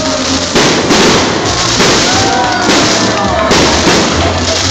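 Aerial firework shells bursting in quick succession, a sharp bang every half second to a second over a continuous crackling din of the display.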